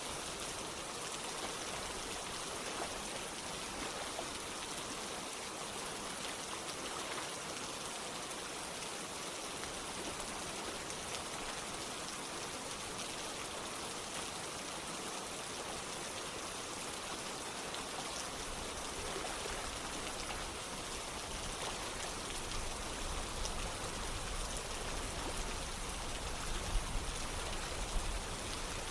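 Steady rain with running water: an even, continuous hiss. About two-thirds of the way through, a low rumble joins in, and near the end there are a few sharper taps.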